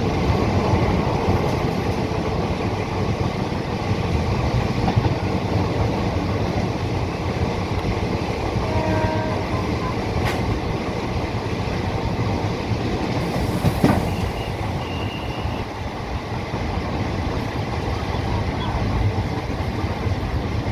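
Bogie tank wagons of an LPG train (BTPGLN type) rolling past close by: a steady rumble of wheels on rail. Two sharp knocks come about ten and fourteen seconds in, the second the loudest.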